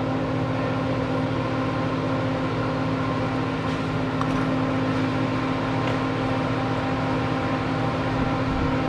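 A steady machine hum with a whirring, fan-like noise that does not change.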